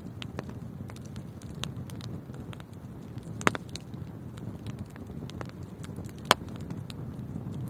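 Wood fire burning in a fireplace: a steady low rumble of flames with frequent small crackles and two loud sharp pops, about three and a half and six seconds in.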